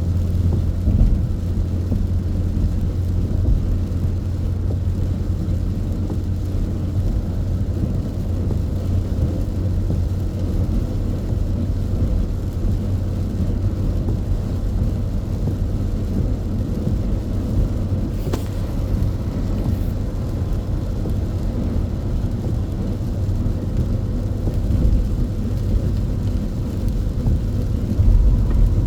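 Car driving at highway speed, heard inside the cabin: a steady low rumble of engine and road noise.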